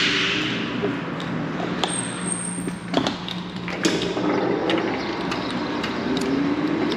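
Bicycle being ridden: irregular clicks and rattles from the bike over a noisy, steady background with a low hum.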